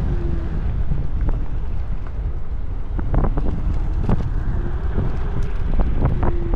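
Wind buffeting an action camera's microphone while riding an electric scooter, heard as a steady low rumble. A few short knocks and rattles come through, mostly from about three seconds in to near the end.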